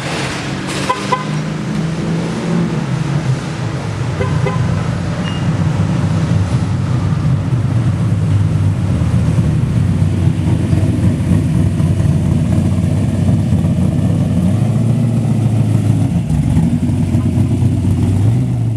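Small-block Chevy V8 in a 1969 Camaro running under way at fairly steady revs, a deep, loud engine note that holds with little change. There are a few short clicks in the first couple of seconds.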